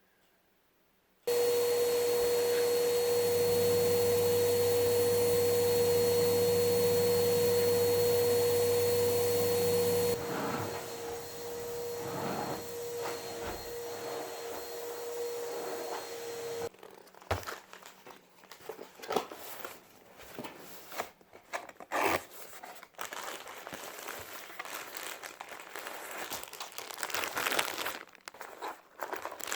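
An electric household appliance starts suddenly and runs with a steady hum and a loud rushing noise. About nine seconds in it drops to a quieter setting, then stops after a few more seconds. Irregular crinkling and clicking handling noises follow.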